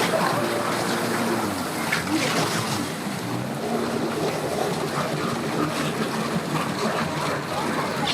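Boat engine running at the ramp with a steady low hum, over churning water.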